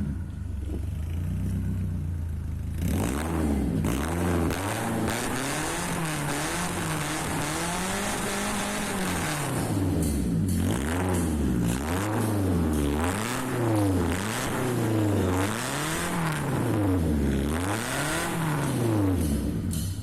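BMW 316i E46's 1.6-litre four-cylinder engine, breathing through new long-tube 4-2-1 headers, a stainless midpipe and a Borla muffler. It idles steadily for the first couple of seconds, then is revved up and let fall back over and over, about every second and a half.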